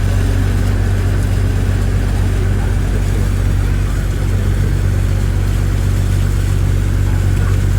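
An engine running steadily at an even speed, a loud low drone that holds unchanged throughout.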